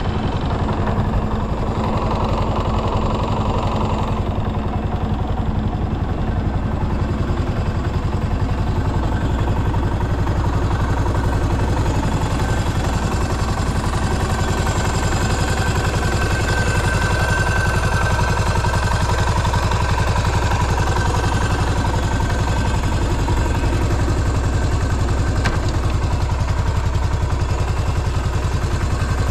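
A stock 1997 Yamaha SR400's air-cooled single-cylinder engine idling steadily. The seller presents it as running with no abnormal noises.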